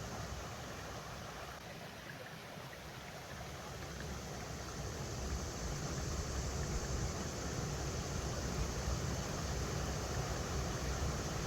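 River water rushing steadily over rocks, with a low rumble underneath that eases about two seconds in and then builds back.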